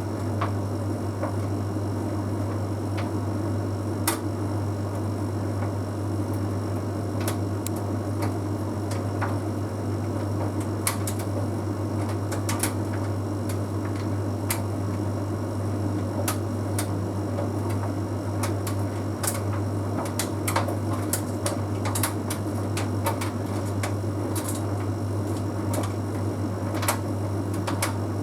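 Bosch Series 6 heat pump tumble dryer running mid-cycle: a steady low hum from its motor and heat pump compressor, with irregular light clicks and taps from the tumbling load.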